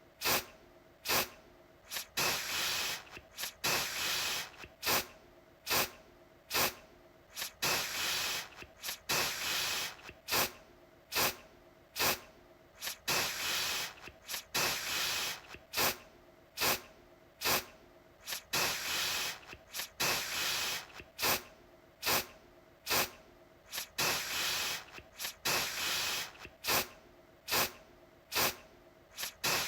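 Aerosol deodorant can sprayed in short, sharp spritzes, about one or two a second at an uneven pace, with some longer hissing sprays between them.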